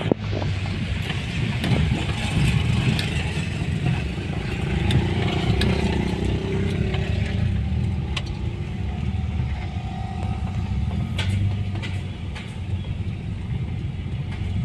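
A road vehicle's engine running steadily on the move, a continuous low rumble.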